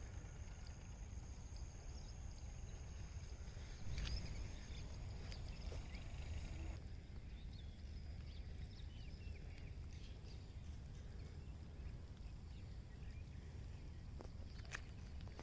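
Outdoor nature ambience: a low steady rumble under a high steady drone that stops about seven seconds in, with scattered faint chirps and a couple of sharp clicks near the end.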